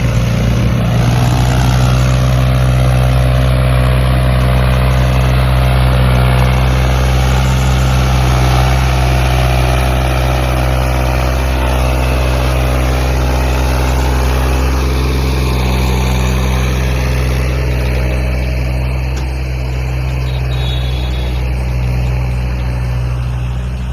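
Tractor's diesel engine running steadily near idle: a loud, low, even drone with an unchanging pitch.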